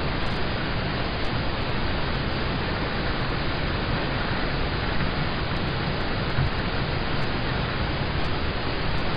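Steady rain on a car, heard from inside the cabin: a dense, even hiss that does not change.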